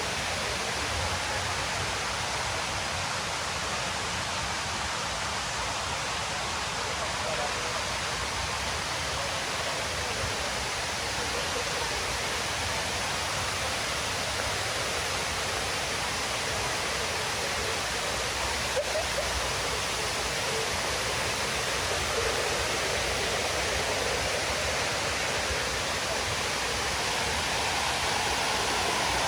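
Water pouring steadily down the walls of the 9/11 Memorial reflecting pool, a constant even rush of falling water.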